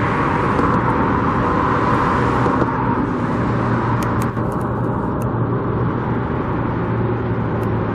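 Road traffic passing: a steady rush of car noise, louder over the first few seconds as a vehicle goes by, then easing off.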